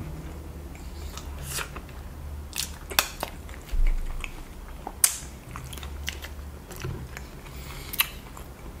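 Close-miked chewing of a mouthful of sauce-covered rotisserie chicken: irregular short mouth clicks and smacks.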